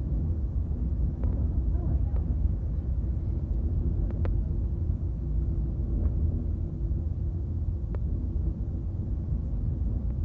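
Portland Aerial Tram cabin in motion: a steady low rumble with a faint hum and a few light clicks.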